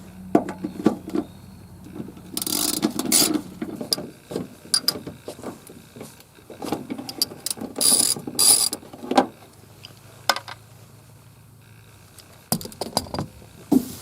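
Irregular mechanical clicking and rattling, with louder scraping bursts about two and a half and eight seconds in.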